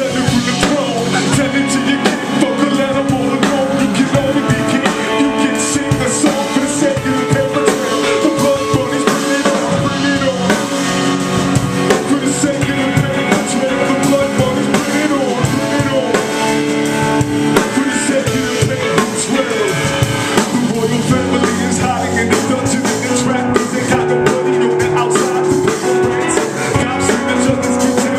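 Live band playing an instrumental passage with drum kit and guitar over a steady beat.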